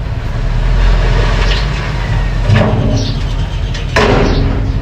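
Mini bulldozer's engine running steadily, with a few knocks or scrapes over it, the loudest about four seconds in.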